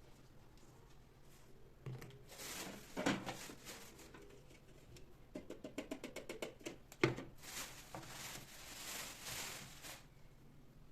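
Plastic airfryer oil-spray bottle handled on a countertop: a few knocks, a quick run of small clicks, then a steady hiss of spray lasting about two and a half seconds.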